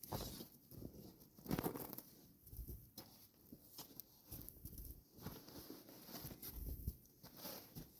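Irregular crunching and rustling in deep snow, with a louder crunch about one and a half seconds in.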